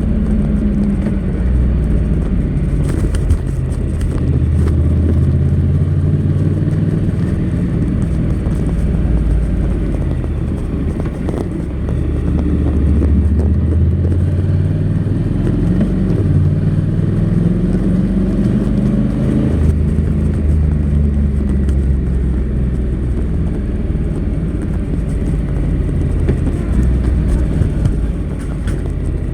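Honda NC700X's 670 cc parallel-twin engine running through its stock exhaust while riding; the engine note climbs and drops several times as the bike speeds up and changes gear.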